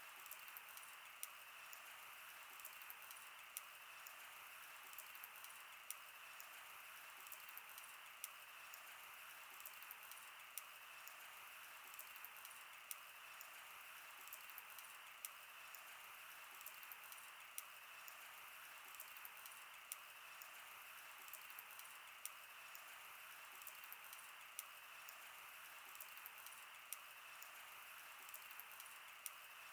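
Wood fire burning: frequent irregular crackles and snaps over a faint, steady hiss.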